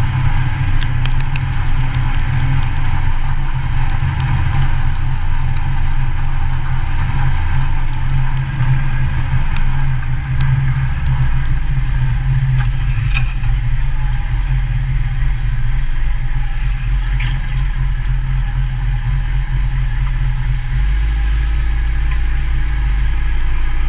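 Motorcycle engine running steadily while riding. Its low note drops lower about halfway through and again near the end.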